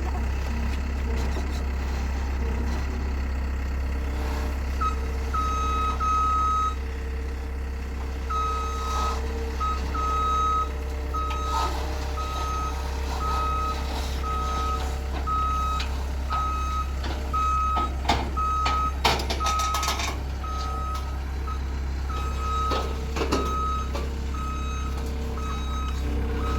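Rented tractor's diesel engine running steadily while its reversing alarm beeps about once a second, starting a few seconds in, as it backs down off a trailer. A few sharp knocks come around the middle.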